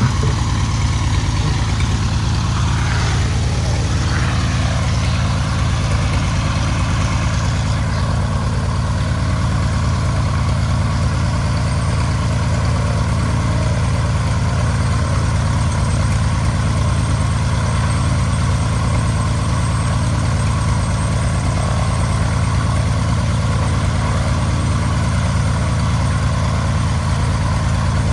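1948 Cessna 170's six-cylinder Continental piston engine and propeller running steadily, a constant low drone with no change in speed.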